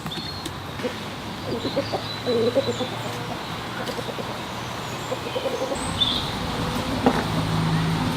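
Chickens clucking in short clusters of calls, over a steady low hum.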